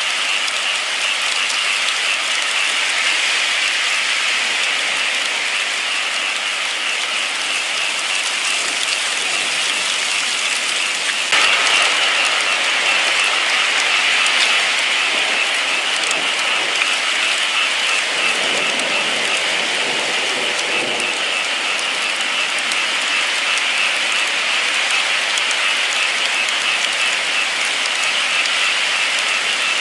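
Steady heavy rain, a dense even hiss that steps up slightly louder about eleven seconds in.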